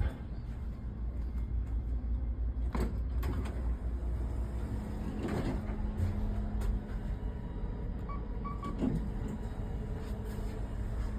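Steady low engine rumble of a moving vehicle, with scattered knocks and clicks and a faint steady hum that joins about halfway through.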